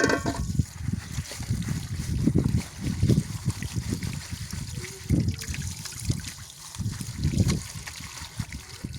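Water trickling and splashing while dishes are washed by hand, coming in irregular swells.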